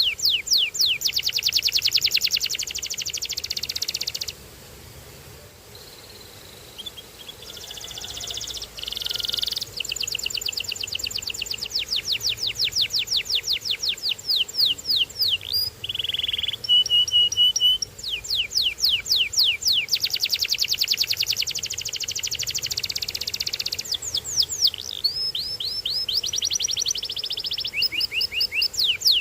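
Domestic canary singing: fast trills of rapidly repeated high chirps, with a short break about four seconds in and a couple of brief steady whistled notes midway.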